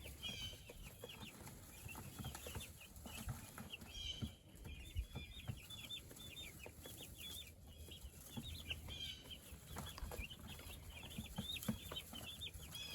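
A flock of young meat chicks peeping continuously, many short high-pitched cheeps a second overlapping one another.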